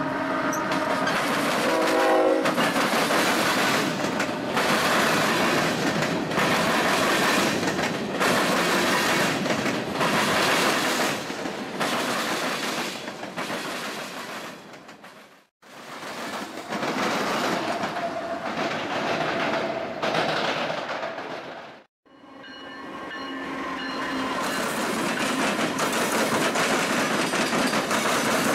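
Freight train passing close by. A diesel locomotive horn sounds at the start and stops about two seconds in; then the steady rumble and clickety-clack of freight cars rolling over the rails. The sound cuts out abruptly twice near the middle, and a second locomotive passes near the end.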